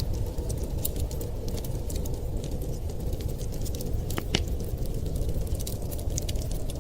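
Wood fire crackling in a fireplace: frequent small sharp pops and snaps, with one stronger pop about four seconds in, over a steady low rumble.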